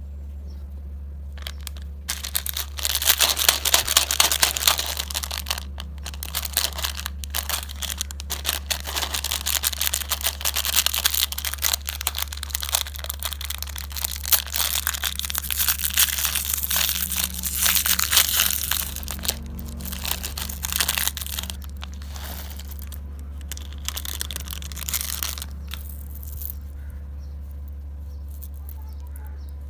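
Plastic candy or snack wrapper crinkling and tearing as it is handled and opened, in dense crackly bursts that start about two seconds in and die away near the end, over a steady low hum.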